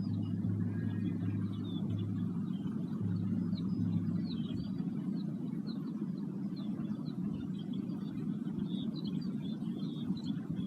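A low, held ringing tone from a sound-bath instrument dies away about four and a half seconds in. Small birds chirp throughout over a steady low rumble.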